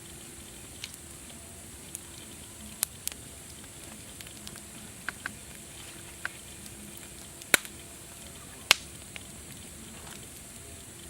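Wood fire crackling over a steady hiss, with scattered sharp pops and two louder snaps in the second half.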